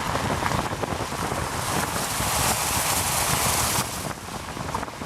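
Steady hiss of falling rain. It grows louder about two seconds in and drops off suddenly near the end.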